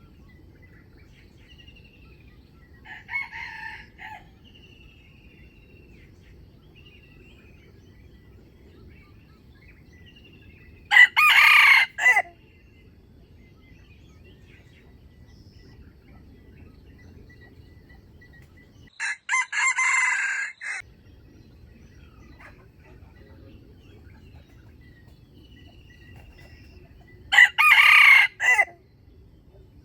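Wild jungle rooster crowing: three loud, short crows about eight seconds apart, with a softer call a few seconds in, and faint small-bird chirps between.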